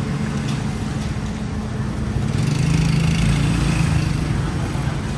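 Road traffic with a motor vehicle passing close, its low engine drone swelling louder between about two and four seconds in, then easing off.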